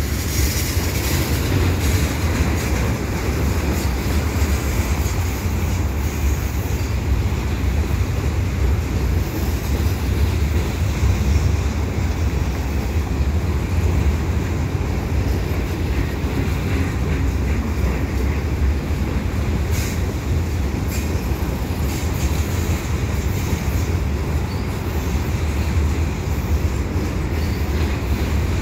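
Loaded freight cars rolling slowly past: a steady low rumble of steel wheels on rail, with occasional sharp clicks.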